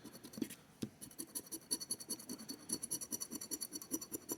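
Scratching the coating off a paper scratch-off lottery ticket in quick, repeated short strokes.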